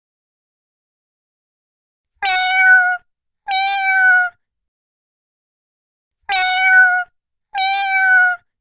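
Domestic cat meowing four times in two pairs, each meow a clear, slightly falling call under a second long. The first comes about two seconds in, with total silence before and between the pairs.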